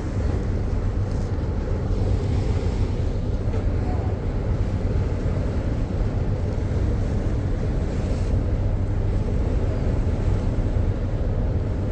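Steady low drone of a cruise boat's engines underway, an even hum with no changes.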